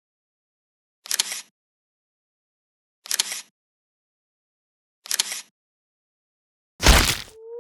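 Cartoon sound effects: a short clattering burst repeats about every two seconds, three times, then a loud thud about seven seconds in.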